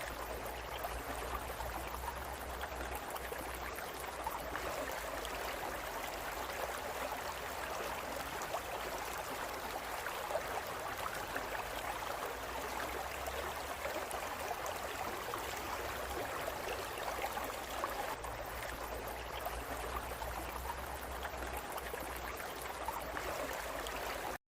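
Steady rushing of running water, with a low hum underneath.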